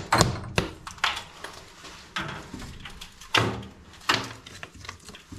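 Irregular knocks, clanks and scrapes of tools and fittings being handled during plumbing work on a gas water heater's pipes, about eight separate hits.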